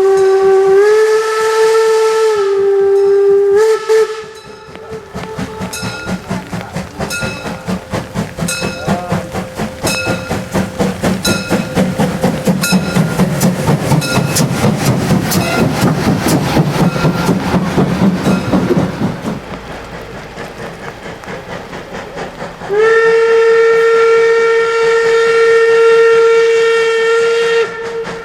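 Steam locomotive whistle blowing loudly for about four seconds, its pitch stepping up and back down, followed by the locomotive's exhaust chuffing in an even beat that quickens and grows louder as it works past, then fades. Near the end the whistle sounds again in one long, steady blast.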